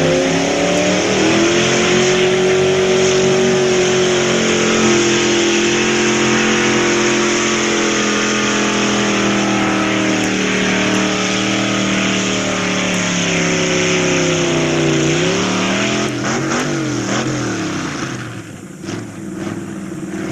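Pickup truck's engine held at full throttle while pulling a weighted sled, the revs high and steady and sagging slowly under the load. About fifteen seconds in the revs waver and then fall away as the throttle comes off.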